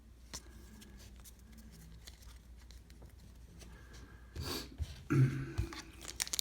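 Faint handling of trading cards, cards slid and flipped one behind another, with a few small clicks and a brief louder swish about four and a half seconds in.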